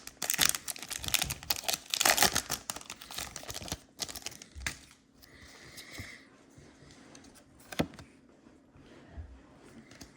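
Foil booster-pack wrapper and trading cards being handled: rapid crinkling and clicking for about four seconds, then a few scattered clicks.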